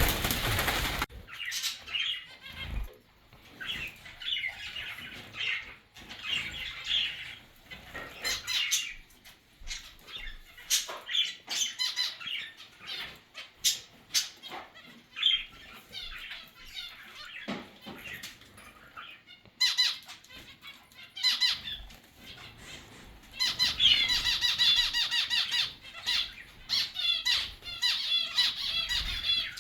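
Mixed cage birds (zebra finches, budgerigars and cockatiels) chirping and squawking, with brief flutters of wings and sharp clicks. A dense burst of chattering calls comes near the end.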